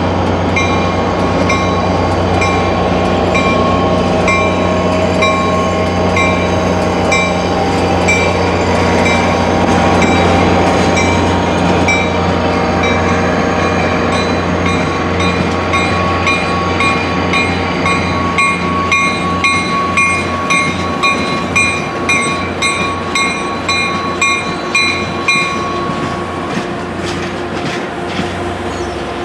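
Caltrain diesel locomotive and passenger cars passing slowly, with a steady low engine drone that fades after about the middle. A bell rings about twice a second until near the end, and in the second half the wheels click rhythmically over the rail joints.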